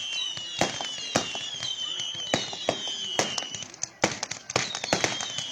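Fireworks display: a rapid, irregular string of sharp bangs mixed with high whistling tones that slide slowly downward in pitch, with a brief lull before a loud bang about four seconds in.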